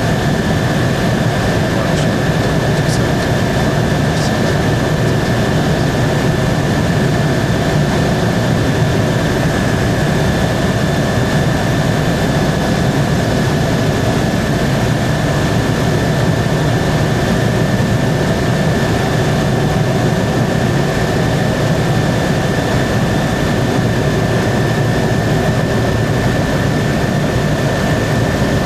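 Helicopter in flight: steady, loud engine and rotor noise with a constant high whine.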